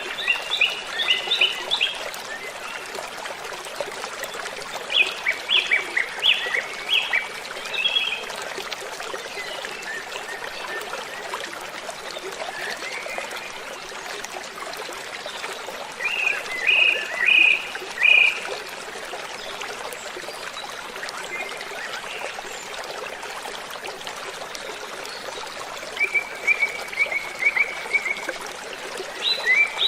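Waterfall rushing steadily, with a bird singing short phrases of quick high notes every few seconds, loudest near the start, in the middle and near the end.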